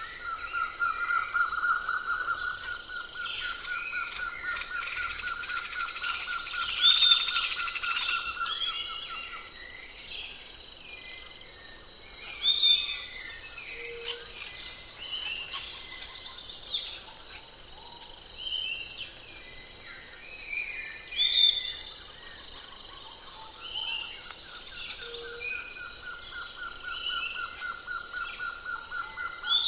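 Several birds chirping and calling at once. A long, even trill sounds for about nine seconds at the start and comes back near the end, and a short high-pitched trill comes in the middle.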